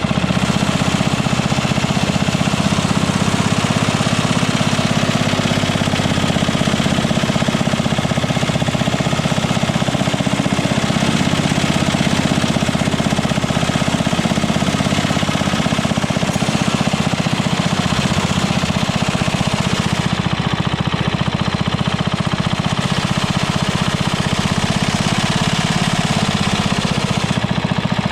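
Engine of an engine-driven welder built around a WWII aircraft generator, running steadily with a fast, even beat.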